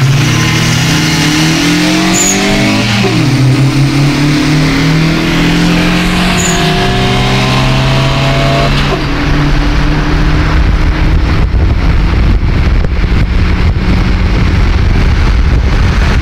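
Car engine accelerating hard, its pitch climbing steadily, then dropping at an upshift about three seconds in and again about nine seconds in. After that the engine holds a steady speed under heavy wind buffeting.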